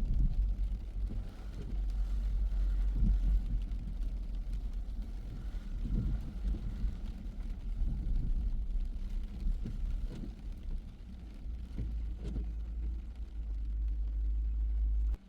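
A car driving: a steady low rumble of engine and road noise, with irregular low thumps from bumps in the road.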